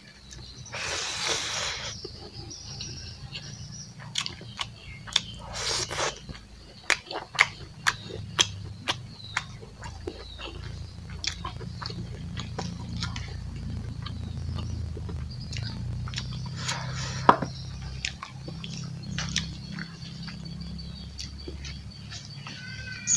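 Close-up eating sounds of a man eating pork curry and rice by hand: chewing with many sharp, irregular mouth clicks, and a few longer, noisier bursts.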